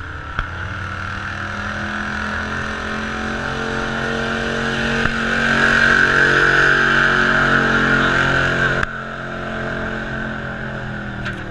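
Big-block engine of a blue Ford pulling tractor running hard under load during a tractor-pull run. The sound grows louder toward the middle and drops off suddenly about nine seconds in.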